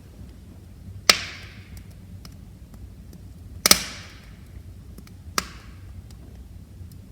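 Wood fire crackling in a fireplace: three loud sharp pops, about a second in, a close double midway and another a second and a half later, with faint ticks between them over a low steady rumble of the flames.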